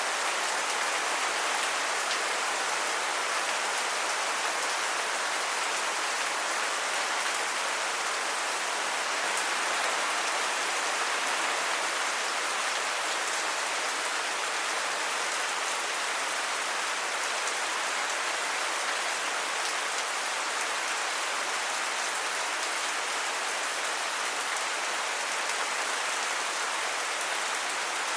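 Steady, heavy rain falling and hissing evenly on surfaces, with no let-up or change.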